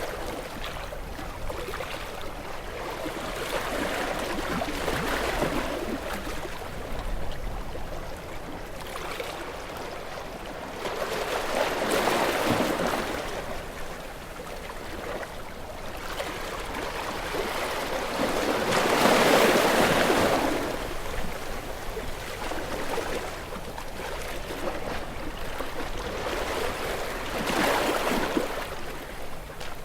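Ocean waves washing in, four slow surges of hissing water that swell and fade about every seven or eight seconds. The loudest comes about two-thirds of the way through.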